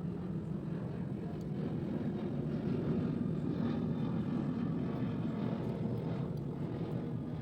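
An engine running with a steady low rumble that swells a little in the middle and eases off near the end.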